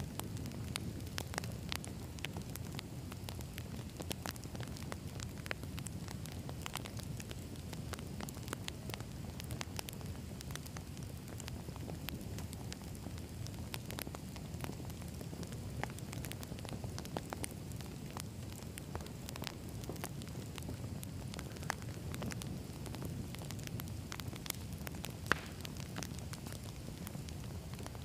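Wood campfire burning: a steady low rumble of flames with frequent sharp crackles and pops from the burning logs, and one louder pop near the end.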